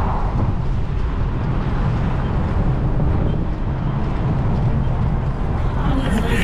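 Wind buffeting the microphone of a camera on a moving bicycle: a steady, loud, low rumble. Something higher-pitched joins near the end.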